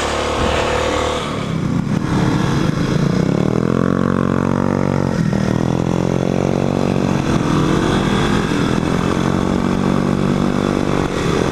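Motorcycle engine pulling under load, its pitch rising, dropping sharply at a gear change about five seconds in, then rising again and levelling off.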